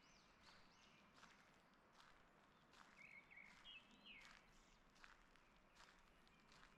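Faint songbirds chirping and calling, with soft footsteps on a forest path at a steady walking pace, a little over one step a second.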